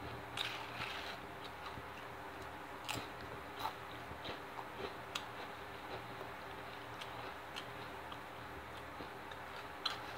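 Close-up eating sounds of spicy Doritos tortilla chips: sparse crunches and mouth clicks, a few of them sharp, with pauses between. A faint steady hum sits underneath.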